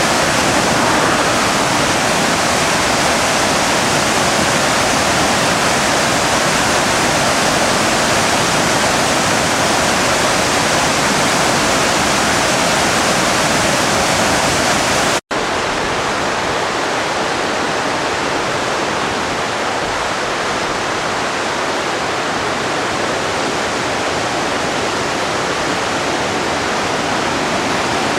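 The river Driva in major flood, carrying about 1000 m³ of water a second, rushing loudly and steadily. About halfway through the sound drops out for an instant at a cut and comes back slightly duller.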